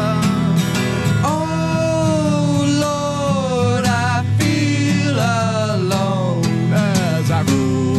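Acoustic pop-rock song played on strummed acoustic guitar, with a long, wordless sung melody of held notes that slide between pitches over it.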